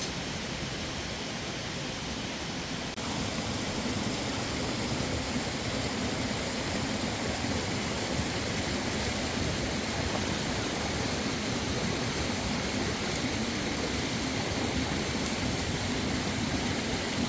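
Steady rush of running water, a little louder from about three seconds in.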